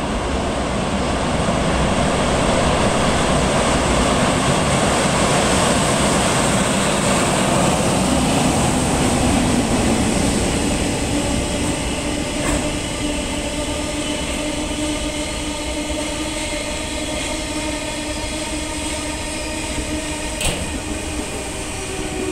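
A freight train of empty oil tank wagons hauled by an EH200 electric locomotive passes close by. Its wheels rumble and clatter steadily on the rails. A steady hum from the wheels comes in during the second half, and there are two sharp clacks from rail joints.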